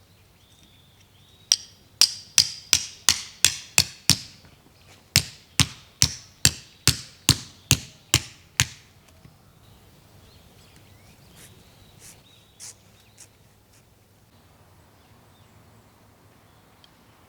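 Hammer driving a metal tent peg into the ground: two runs of quick, even, ringing strikes, about three a second, with a short pause between them.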